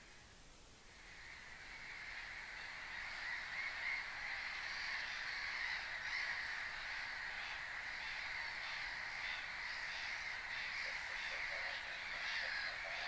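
A colony of waterbirds calling, with many harsh, honking calls overlapping into a continuous din. It is thinner for the first second or so, then swells and holds steady.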